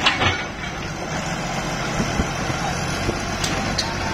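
Hitachi UH07 hydraulic excavator's diesel engine running steadily, with a sharp metallic clank at the start and a few lighter knocks a couple of seconds later.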